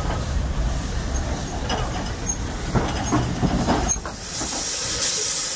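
Vintage railway carriages rolling past, the wheels and couplings rumbling with a few clanks and knocks over the rail joints. About four seconds in the rumble drops away and a loud hiss takes over.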